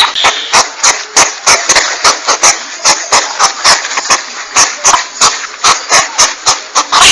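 Porcupine hissing with a rapid run of sharp clicks, about four a second.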